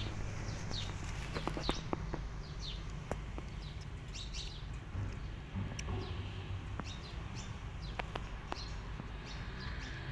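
Small birds chirping repeatedly with short, high downward-sliding calls, over a low outdoor rumble, with a few sharp clicks scattered through.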